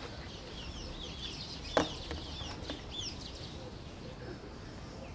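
Small birds chirping: a quick run of short, high chirps through the first three seconds, with one sharp knock a little under two seconds in.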